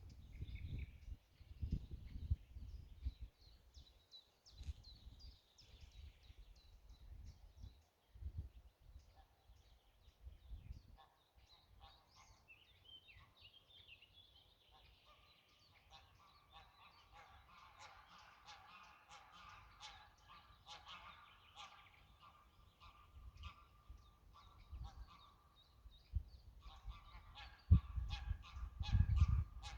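Greylag geese honking, the calls growing into a dense, overlapping chorus in the second half. Low rumbles and thumps come and go, loudest near the end.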